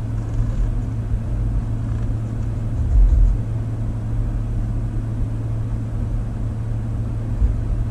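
Steady low idle hum and rumble of a 2021 Dodge Durango R/T's 5.7-litre Hemi V8, heard from inside the cabin, with a brief swell in the rumble about three seconds in.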